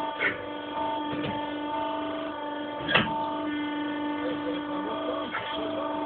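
Hydraulic pump unit of a sawmill, driven by a 4 kW electric motor, running with a steady hum. A few short knocks cut in, the loudest about three seconds in.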